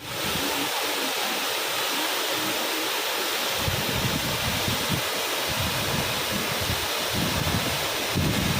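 Waterfall rushing steadily, with irregular low buffeting on the microphone from about three and a half seconds in.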